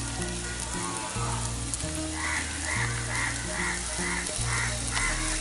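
Pork frying in a covered aluminium pot over a wood fire, a steady sizzle. Low background music runs underneath, and from about two seconds in a short repeated sound comes about twice a second.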